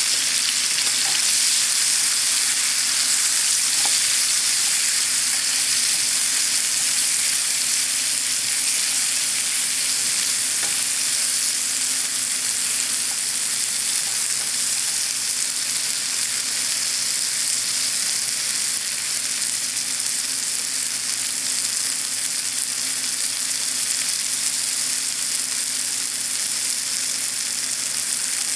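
Pieces of leftover roasted sweet potato sizzling steadily in a frying pan as they cook for candied sweet potato.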